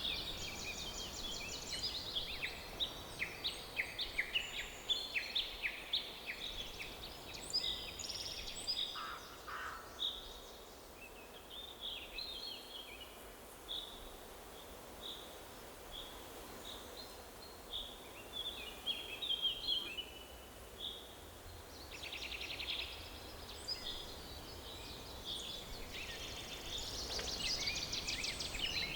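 Several songbirds chirping and trilling in a forest chorus. The calls are busy in the first several seconds, thin out to a run of repeated single notes, and grow busy again near the end, over a faint low background noise.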